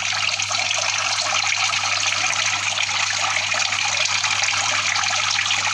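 Water lifted by an air cooler's submersible pump running steadily back down into the tank, a continuous splashing trickle, over a low steady hum.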